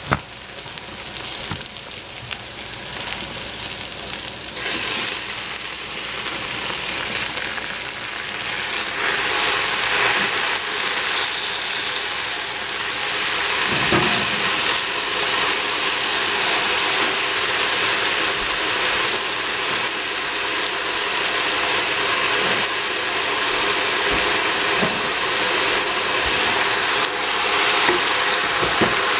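Vegetables and tofu sizzling in oil in a stainless steel pot. The frying hiss swells about four seconds in and then runs steady and loud, with occasional clicks and a knock of the wooden spatula against the pot.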